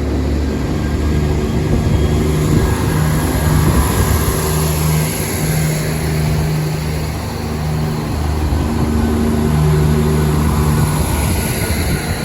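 Southern Class 171 Turbostar diesel multiple unit's underfloor diesel engines running with a steady low drone as the train pulls out of the platform.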